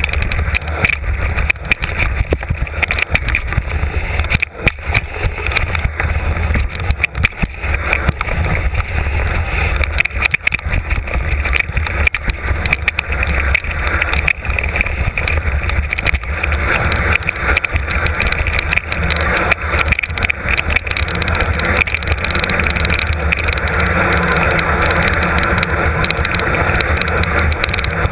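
Mountain bike riding down a rough trail, heard from a camera on board: constant wind buffeting and tyre noise, broken by many quick clicks and rattles over the bumps.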